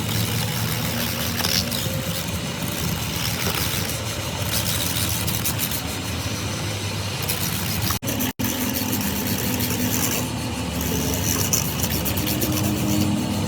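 A machine engine running steadily with a low hum under dense workshop noise, broken by two very short dropouts about eight seconds in.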